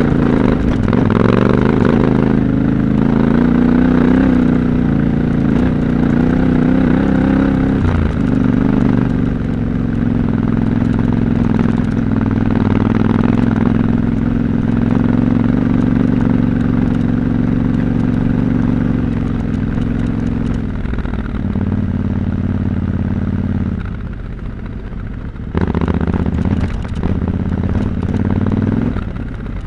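Yamaha Ténéré 700 Extreme's 689 cc parallel-twin engine running at low, fairly steady revs while riding off-road. The engine note drops and quietens about twenty-four seconds in, then picks up again a second or two later.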